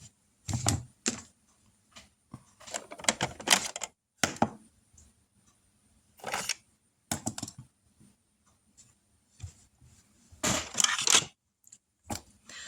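Irregular clicks, knocks and rustles of objects being handled at close range, in scattered bursts with short quiet gaps, the loudest cluster about ten seconds in.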